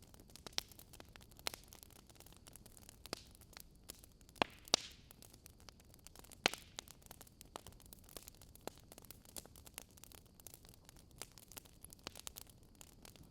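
Burning wood logs crackling: scattered sharp snaps and pops over a faint steady hiss, with two louder pops around four and a half seconds in and another at about six and a half.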